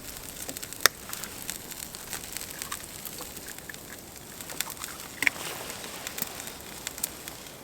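Steady soft sizzling and scattered light crackles from eggs frying in a billy can over a wood campfire, with one sharp crack about a second in.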